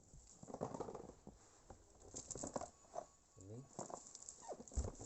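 Rustling, crinkling and light clicks of a wrapped parcel being handled, with a few short voice-like sounds in the background.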